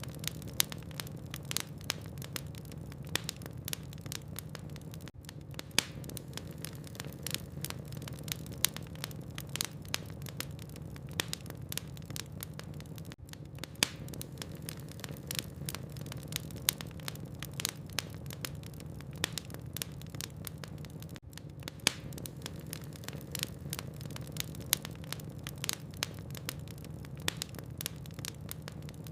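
Wood fire burning in a fireplace, its logs crackling with irregular sharp pops and snaps, several a second, over a steady low hum.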